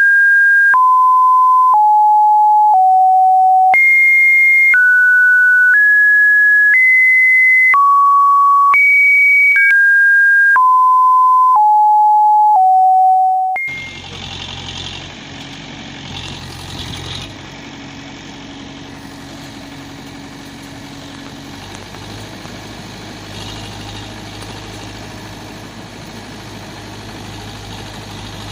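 A simple tune of pure electronic beeps, one note about every second. The falling four-note opening phrase comes back at the end. About halfway through, the beeps stop and a quieter, steady vehicle engine sound follows, idling with a low hum.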